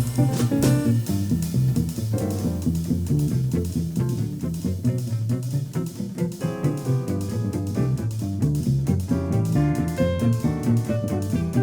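Live jazz combo instrumental break with the plucked double bass loudest, carrying the line, and light drum-kit cymbal and snare strokes under it. Fuller chords come in about six seconds in.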